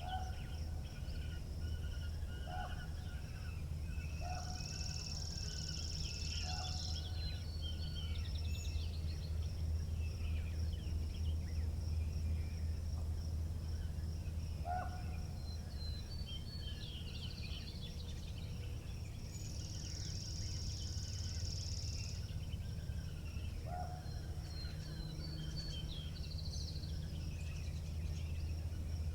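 Outdoor springtime ambience: a steady low rumble of wind, with several small birds chirping on and off. A thin high buzz runs throughout and grows louder twice for a few seconds.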